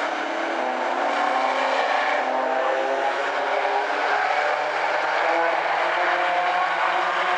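A pack of late model stock cars running together on the oval, several engines overlapping, their pitch climbing slightly as the field gets up to speed.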